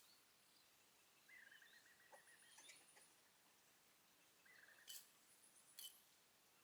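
Faint birdsong: two short, rapid trills at one steady pitch, about three seconds apart, with a few faint clicks.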